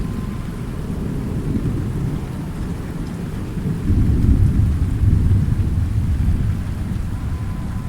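Thunder rumbling low and continuously over steady rain, the rumble swelling louder about four seconds in and easing off near the end.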